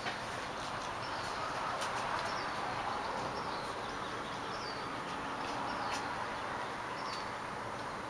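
A small bird chirping over and over, about once a second, against a steady outdoor hiss, with a few faint clicks.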